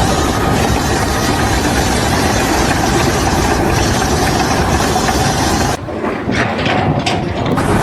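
Loud, steady engine or machinery noise. About six seconds in it briefly turns duller before coming back.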